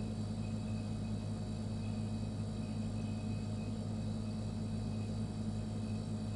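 Refrigerator running with a steady low hum, faint high-pitched tones above it.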